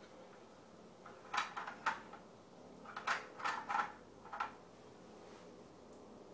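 Pieces of a train puzzle being moved on the board: a handful of short clacks, two about a second in and several more between three and four and a half seconds in.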